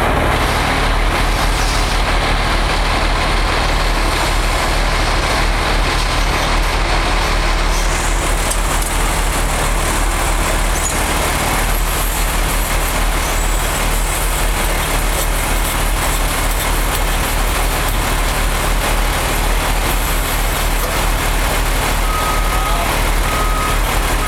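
Heavy diesel engines of a wheel loader and dump truck running steadily during loading. Near the end, a reverse alarm beeps three times.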